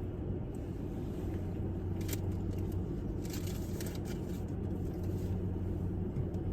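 Steady low hum, with a few faint short crackles and clicks between about two and four and a half seconds in.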